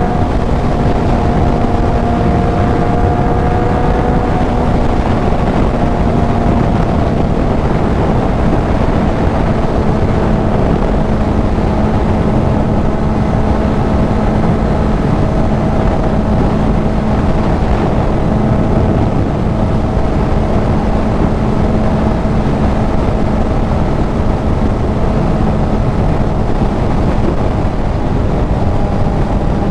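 Kawasaki Z900's inline-four engine through a CS Racing full exhaust, running at a steady cruising speed with its pitch barely changing, under a heavy rush of wind noise.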